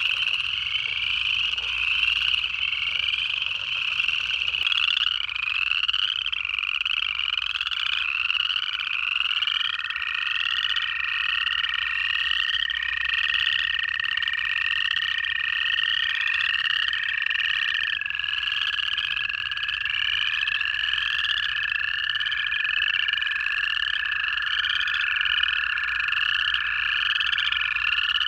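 Chorus of upland chorus frogs, many short ascending trills repeating over and over. From about nine seconds in, long steady trills of American toads join, two toads overlapping at slightly different pitches.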